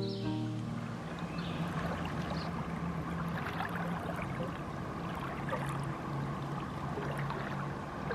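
A steady rush of noise like running water, with a faint low hum underneath.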